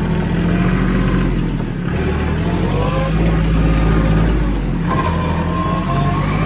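Tractor engine running steadily at a low, even pitch, with a few higher wavering tones over it in the second half.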